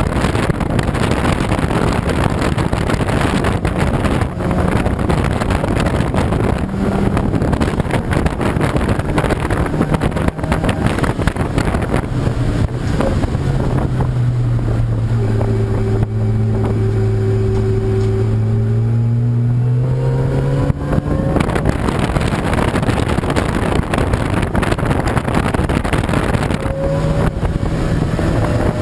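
Race car engines running on a circuit under a steady rush of noise. About halfway through, one car's engine note grows loud and holds steady for several seconds, then rises in pitch and fades.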